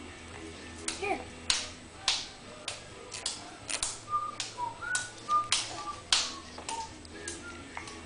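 Ground beef being patted and slapped into hamburger patties by hand: a run of irregular sharp slaps, about a dozen over several seconds.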